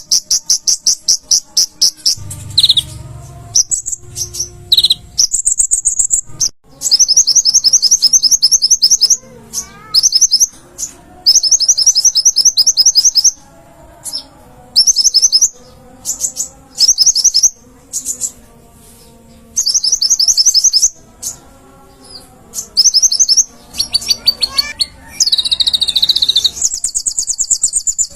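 Konin (kolibri ninja sunbird) singing: very fast, high-pitched trills in bursts of one to two seconds, repeated again and again with short pauses.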